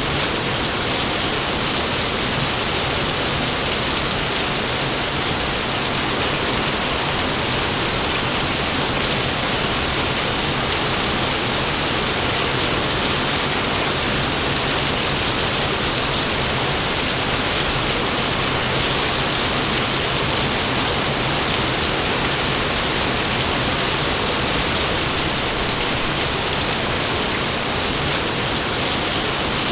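Heavy rain falling in a steady, dense hiss, with no thunder heard.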